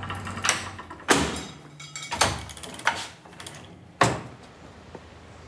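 Five sharp knocks in a row, each with a short ringing tail, the loudest a little over a second in and about four seconds in, over a low steady rumble.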